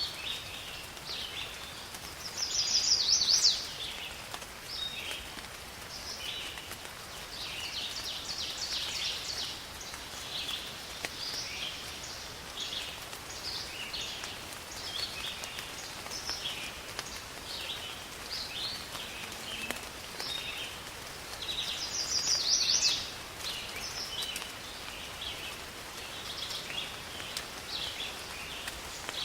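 Birds chirping and calling over a faint steady hiss of rain. Two louder, rapid bird trills stand out, one about three seconds in and another about twenty-two seconds in.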